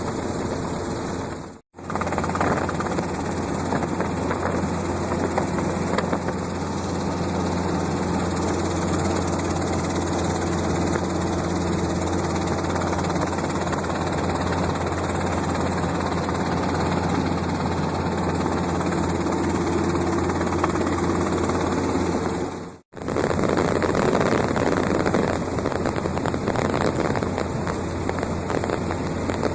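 Helicopter engine and rotors running steadily, a continuous drone. The sound cuts out to silence for an instant twice, about two seconds in and again about three quarters of the way through.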